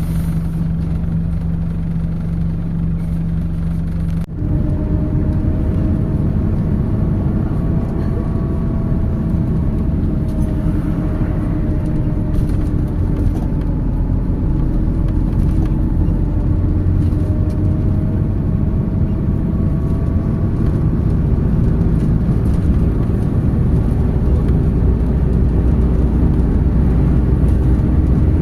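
MAZ 206 city bus running: a steady low hum for the first four seconds, then a sudden change to the louder sound of the bus under way, with a whine that rises and falls as it drives.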